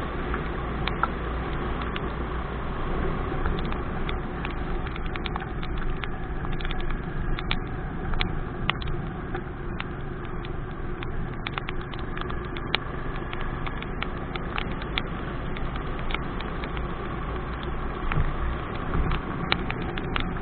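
Motorcycle engine running steadily on the road, with raindrops ticking irregularly on the microphone.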